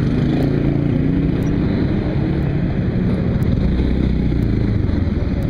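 Motorcycle engine running while riding, its pitch sliding in the first second or so and then holding fairly steady, over a constant rush of noise.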